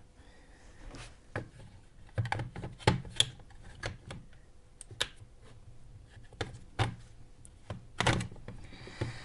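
Irregular clicks and knocks of battery cells and pack parts being handled and fitted together by hand, with a cluster of sharper knocks a couple of seconds in and another near the end.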